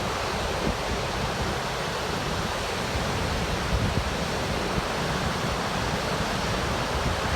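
Río Paine waterfall rushing steadily, a constant roar of falling water.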